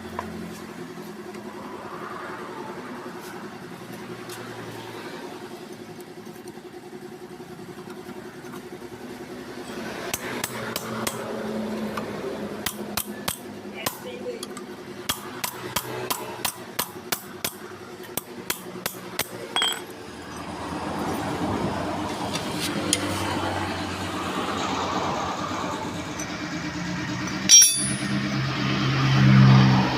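Repeated sharp hammer taps on metal, about two a second for roughly ten seconds, over a steady low hum, with one louder knock near the end.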